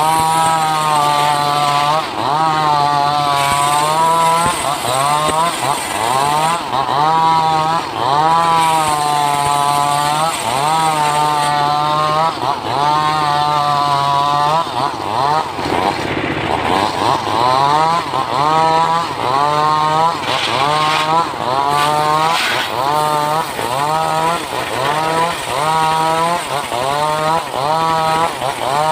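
Stihl MS381 two-stroke chainsaw running hard and cutting through wood. Its engine pitch sags and recovers over and over, about every second or two, as the chain bites and clears the cut.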